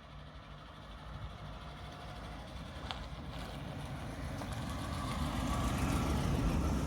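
A car driving in at low speed, its engine and tyre noise growing steadily louder as it approaches.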